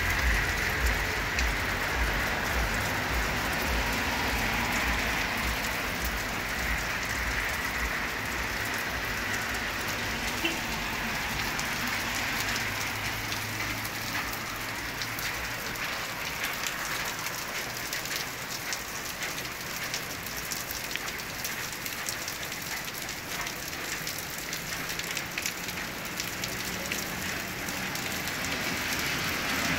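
Steady rain falling on a wet street, a constant hiss of rain with many fine drop ticks. A low rumble under the rain fades out about halfway through.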